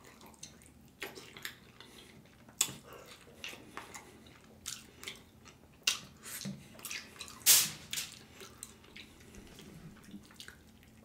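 Close-miked wet mouth sounds of a person eating sauced, slow-cooked oxtails by hand, biting tender meat off the bone: irregular short smacks and clicks of lips and chewing, the loudest about seven and a half seconds in.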